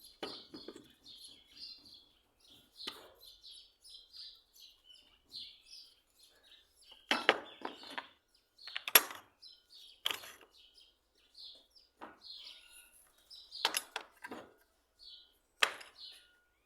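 Small birds chirping over and over, with about seven sharp knocks or clicks scattered through; the loudest knock comes about nine seconds in.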